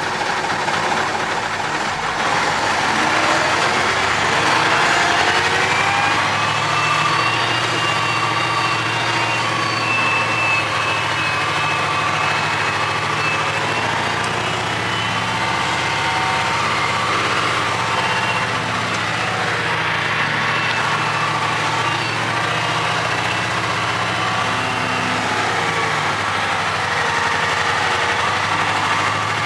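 Cummins 903 V8 diesel of a Ford LNT 9000 truck running as the truck is driven. Its note rises over the first few seconds, then holds fairly steady with small changes in pitch.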